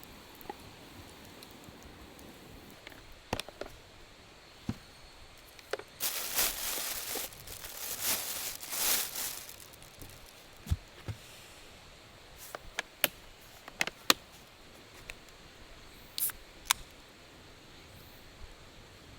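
Eating from a skillet: scattered sharp clicks and taps of a utensil, with a stretch of rustling and scraping about six to nine seconds in.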